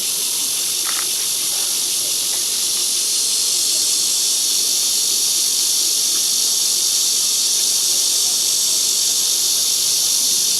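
Dense insect chorus: a steady, loud, high-pitched hiss with no break.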